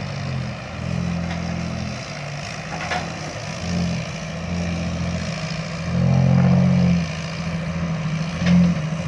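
Diesel dump truck running with a loud aftermarket exhaust on both sides, the engine note swelling and easing, loudest about six seconds in.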